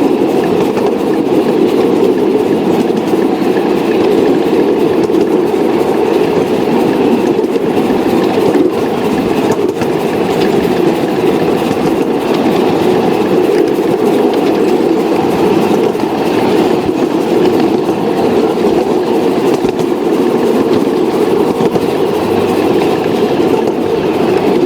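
Model train running on the layout's track: a steady rumble with no breaks.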